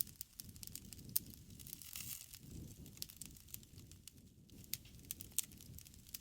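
Wood campfire crackling: irregular sharp pops and snaps over a low, soft rumble of the flames.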